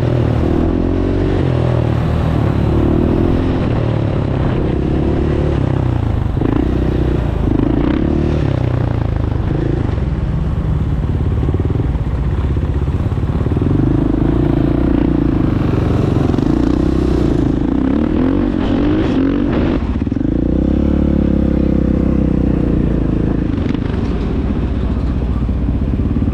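Dirt bike engines running and revving, their pitch rising and falling again and again over a steady low rumble.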